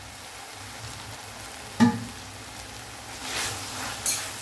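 Onion-tomato masala frying with a steady sizzle in a stainless steel kadai. A single sharp knock comes a little under two seconds in, and near the end a steel spoon stirs and scrapes through the masala against the pan.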